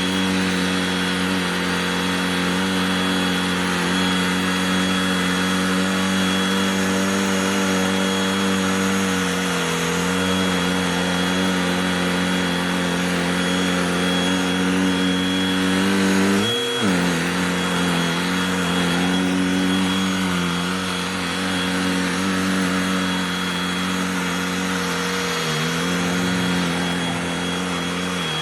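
Cordless handheld vacuum's motor running steadily with a humming whine. Its pitch dips briefly and recovers about two-thirds of the way through, and dips slightly again near the end.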